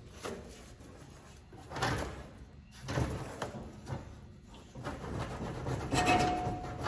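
A few scrapes and knocks of metal parts being handled and worked into place, in separate bursts a second or so apart.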